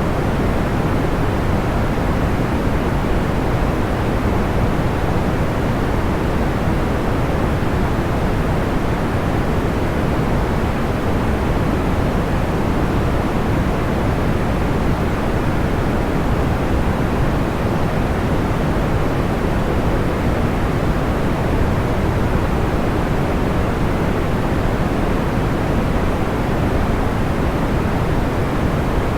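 Steady, even white noise of a deep, soft kind, strongest in the lows and fading out toward the top, with no pops or crackles standing out.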